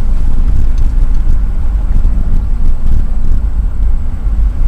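Car driving over a lava road: a loud, steady low rumble of the moving vehicle.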